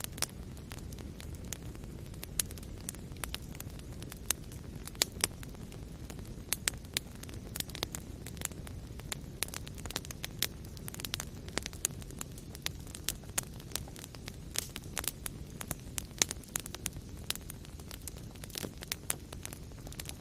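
Wood fire burning in a fireplace: a steady low rumble of flames with irregular sharp crackles and pops throughout, several of them a little louder than the rest.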